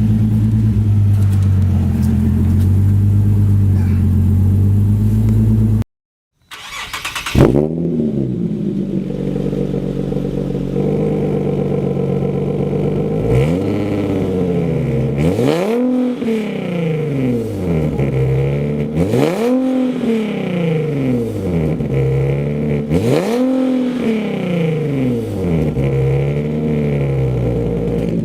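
Nissan 370Z's 3.7-litre V6 heard through its exhaust: the engine runs at a steady note for about six seconds, then after an abrupt cut it is free-revved in a series of blips, each rising and falling back, about every three to four seconds.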